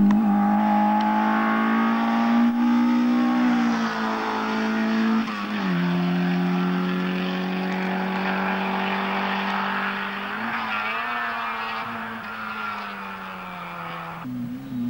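Rally car's engine running hard at high revs as it passes and drives away along the stage road; the note drops sharply about five seconds in and then holds steady. Just before the end a cut brings in another rally car's engine.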